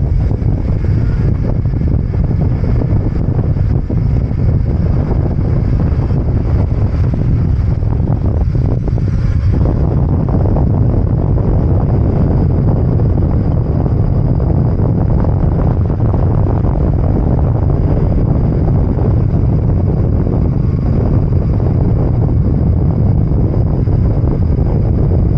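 Loud, steady wind buffeting on a small action camera's microphone as a mountain bike rider descends at speed in a tuck.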